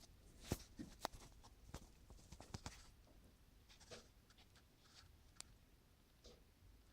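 Faint scattered clicks and light taps, several in the first three seconds and a few more spread out later, the loudest a little after half a second in.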